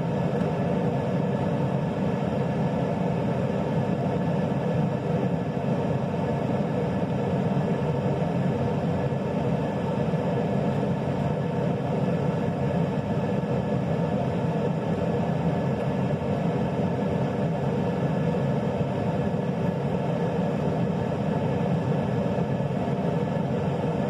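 A steady, unchanging motor drone with a few constant tones in it.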